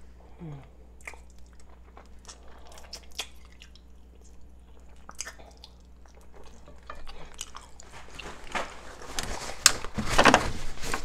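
Close-miked chewing and biting of rotisserie chicken, with many wet mouth clicks and smacks. A louder, denser rustling noise builds near the end.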